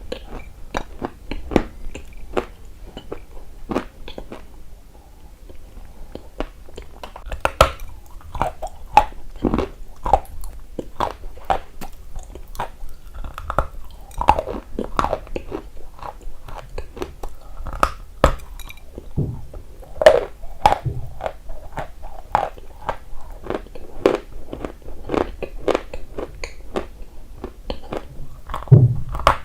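Close-miked chewing and crunching of a dry, brittle substance such as chalk or clay: many sharp, irregular crunches with bites between them.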